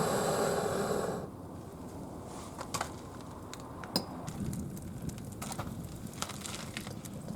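Wood fire burning in a brick kamado, crackling with scattered sharp pops. It is preceded by a steady mechanical whirr that cuts off abruptly about a second in.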